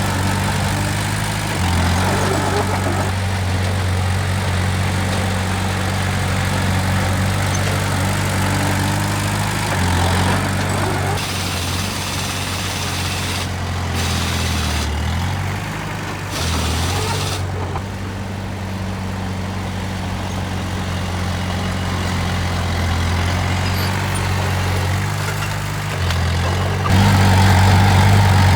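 Heavy diesel engine of earthmoving machinery running steadily, its engine speed dipping and recovering several times and rising louder near the end.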